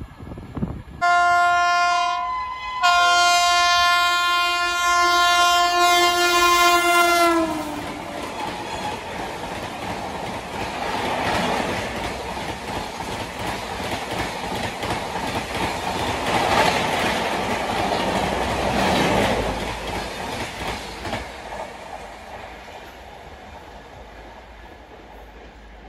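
Indian Railways express locomotive sounding its horn twice, a short blast then a long one, the pitch dropping as it passes close by. Then the coaches rush through at full speed with a rattle of wheels over rail joints, fading slowly as the train moves away.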